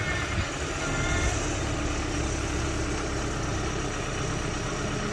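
Heavy diesel engine of earthmoving machinery running steadily at low revs.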